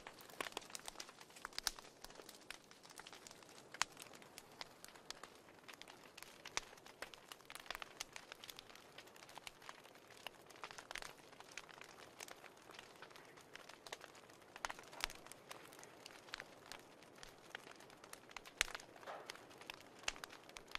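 Fire crackling: a faint, steady hiss with irregular sharp pops and snaps.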